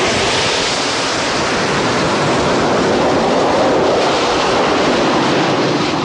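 A steady, loud rushing noise with no clear tone, easing off near the end.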